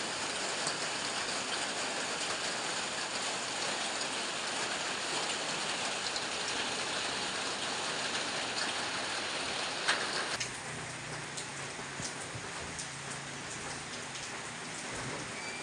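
Heavy rain falling steadily. About ten seconds in there is a sharp knock, after which the rain is quieter, with separate drops ticking and a faint low hum underneath.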